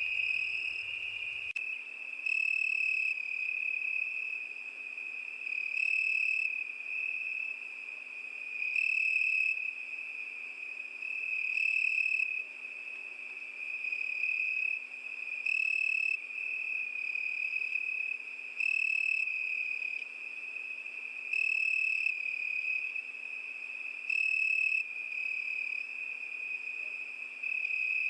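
Crickets chirping in a steady high-pitched trill, with a louder burst of chirps about every three seconds.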